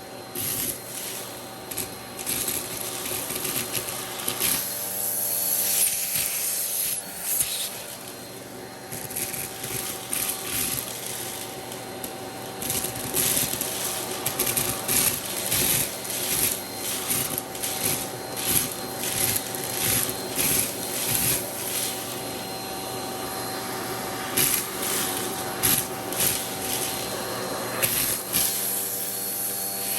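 Vacuum cleaner running with a hose attachment tool rubbing back and forth over a surface, giving repeated short scraping strokes over the steady motor hum.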